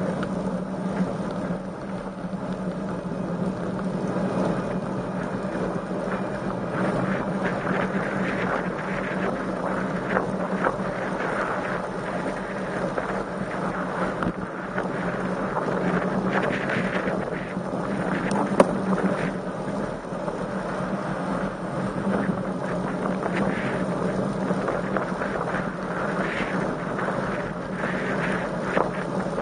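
Wind buffeting a bike-mounted camera's microphone while riding a road bicycle: a continuous rushing noise over a steady low hum. There is one sharp click about two-thirds of the way through.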